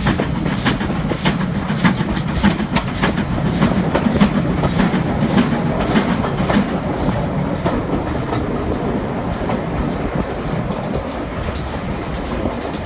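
Train running, heard from an open carriage window behind a Stanier Black 5 4-6-0 steam locomotive: sharp beats about two to three a second over a steady rumble of wheels on the track. The beats fade out about seven seconds in, leaving the steady rolling rumble.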